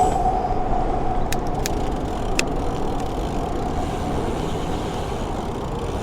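Road traffic and riding noise from a moving bicycle, with a steady hum that fades over the first few seconds. Three short sharp clicks come between about one and two and a half seconds in.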